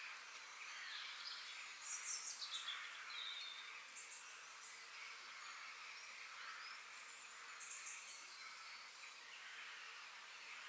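Faint forest ambience: a bird gives a quick series of short, high chirps about two seconds in, stepping down in pitch, and another run near eight seconds, over a steady hiss of insects and distant birds.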